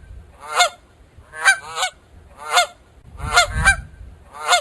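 Goose honking repeatedly: about seven short honks, some in quick pairs, roughly one call a second.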